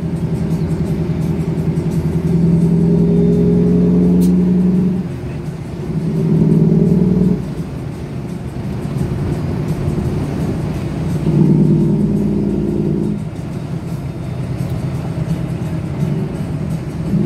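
Cummins diesel engine in a big-rig truck running. Its low drone swells for a few seconds at a time and eases off between, several times.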